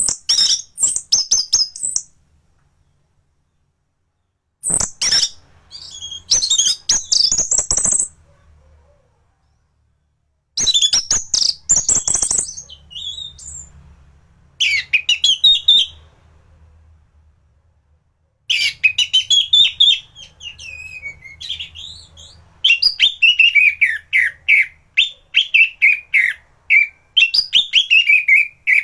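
Anis thrush in full song: loud phrases in bursts with short pauses between them, the first ones a fast, scratchy chatter of high notes, the long last phrase a string of clear whistles each sliding downward.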